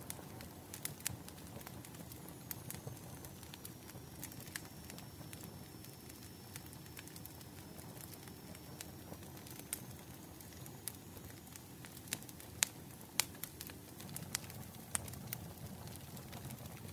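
Wood fire crackling: irregular sharp snaps and pops over a steady low rumble of burning, with a cluster of louder pops about twelve to fifteen seconds in.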